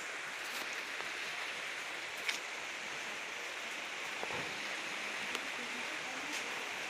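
Steady rain falling: a continuous hiss with a few single, sharper drop taps now and then.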